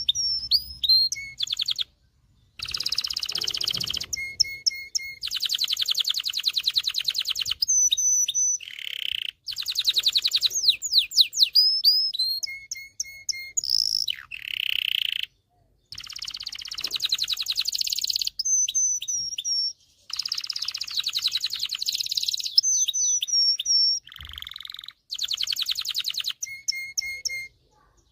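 Male domestic canary singing: a long, varied song of rapid trills and rolls, repeated whistled notes and quick rising and falling glides, phrase after phrase with only brief pauses.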